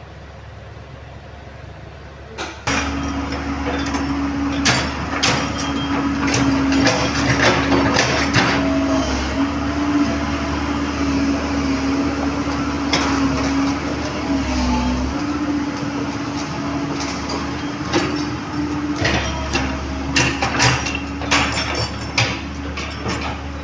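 Komatsu PC130 excavator starting to run under load about three seconds in, with a steady whine and low rumble. Repeated metal clanks and knocks run through it, typical of work on the track chain.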